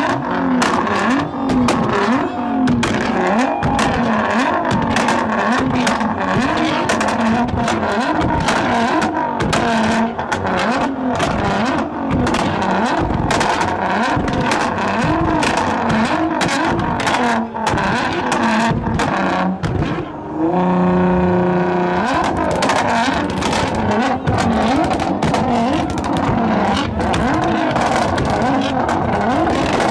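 Car engines revved hard over and over, the engine note rising and falling in quick swells, with many sharp cracks through it. About two-thirds of the way through, a steady held note lasts for a second or two.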